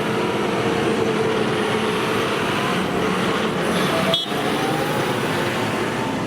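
Tractor engine running steadily under load, with slight swells in pitch and a brief drop-out about four seconds in.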